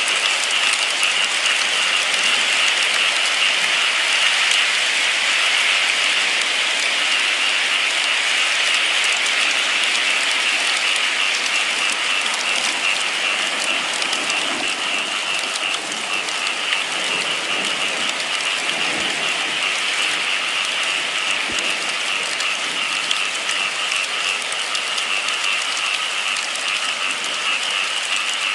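Steady rain falling: an even hiss of rain with a fine patter of individual drops.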